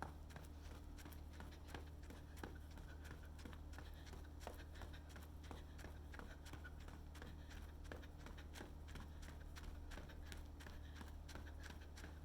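Faint footsteps of a person walking or running on a path: a run of short, irregular taps over a steady low hum.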